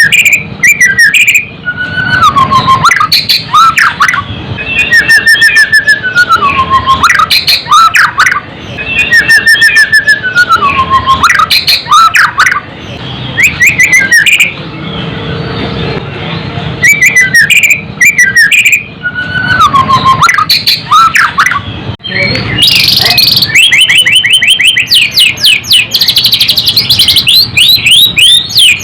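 White-rumped shama (murai batu) singing loudly in an aggressive fighter-style song: repeated phrases of sweeping, falling whistles mixed with fast clicking trills. In the last quarter it breaks into a long, dense run of rapid rattling trills.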